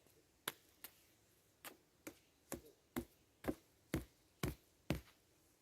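A series of about ten sharp clicks or knocks: a few spaced out at first, then steady at about two a second.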